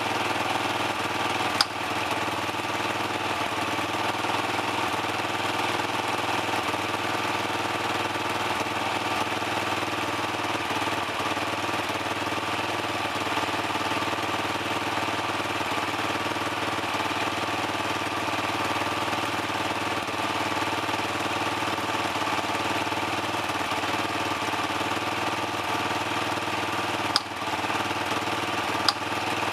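Dirt bike engine idling steadily while warming up. A few sharp clicks come once near the start and twice near the end.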